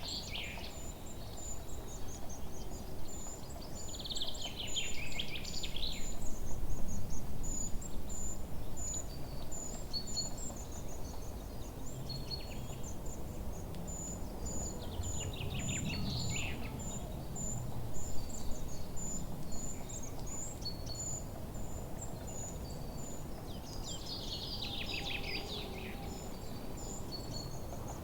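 Forest ambience. A songbird sings short descending phrases about five times, several seconds apart, over a steady run of high, thin chirps and a low rumble of background noise.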